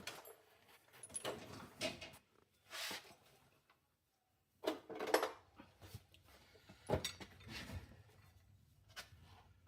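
Scattered knocks and clunks of tools and parts being handled, a handful of separate hits with short quiet stretches between them and a brief dead-silent gap about four seconds in.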